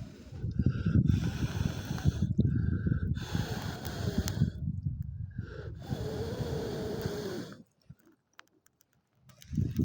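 Gusts of moving air buffeting the microphone in surges of one to two seconds with short breaks, as around a small campfire that will not catch. It stops abruptly about three-quarters through.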